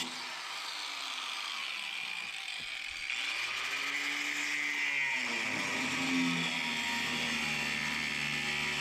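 Angle grinder with a cutoff wheel cutting through the corners of welded steel brackets. The motor's whine sags and recovers as the wheel bites into the steel and eases off, then settles to a steady pitch near the end.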